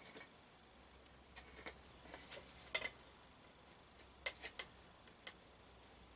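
A scattering of light clicks and taps at irregular times, with the loudest a little before the middle: tools and wood being handled and set down on a workbench, not sawing strokes.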